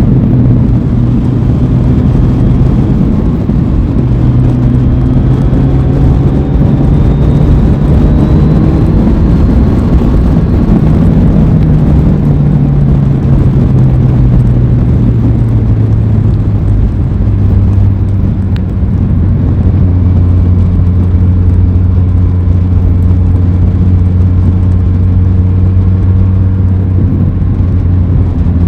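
Aprilia Tuono 660's parallel-twin engine running under way on a ride, over a steady rushing noise. The engine note rises a little, drops about halfway through, and holds steady at a lower pitch for the rest.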